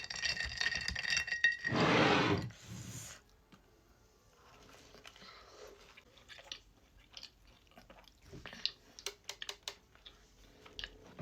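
Someone eating a soft cookie soaked in caramel macchiato: one loud rustling bite about two seconds in, then quiet chewing with small wet clicks.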